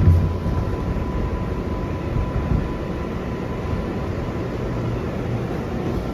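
Inside an R142A subway car standing at a station: a steady rumble and hum from the car's equipment. A thin high tone fades out over the first few seconds.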